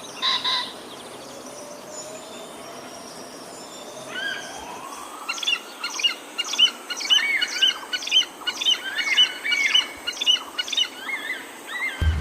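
Wild birds calling: a short call near the start, then from about five seconds in a fast, overlapping run of loud chirps and whistled notes.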